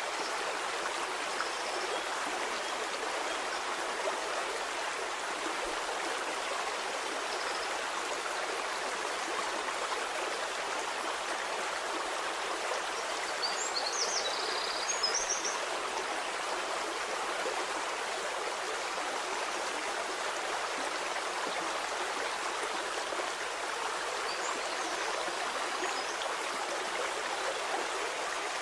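A stream flowing steadily with an even rush of water. A short cluster of brief, high sounds comes a little past the middle.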